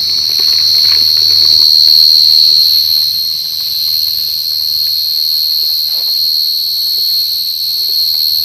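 A burrowing cricket calling at close range: a loud, unbroken high-pitched trill, steady in pitch, that cuts off suddenly at the very end.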